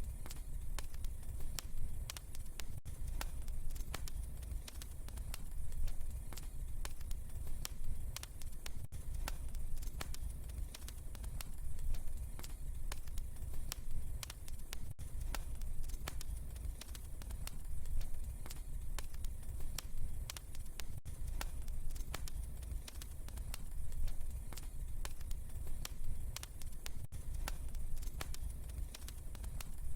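Fireplace fire crackling: a dense run of small pops and snaps over a steady low rumble of the flames, swelling and easing about every six seconds.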